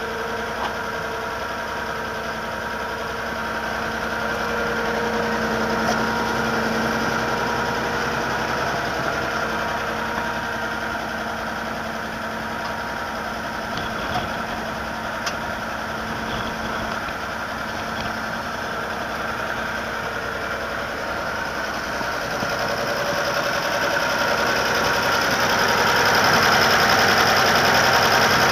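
International Harvester 666 tractor engine running steadily at idle, growing louder over the last few seconds.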